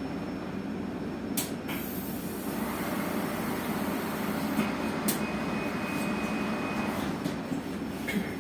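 Cabin noise inside an electric bus: a steady hum and rumble that grows a little louder a few seconds in, with a couple of sharp clicks and a thin steady high tone lasting about two seconds.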